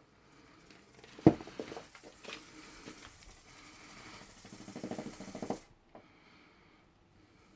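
Smart-ball cat toy rolling and knocking about: a sharp knock a little over a second in, scattered clicks, then a run of rapid rattling ticks that stops abruptly near the end.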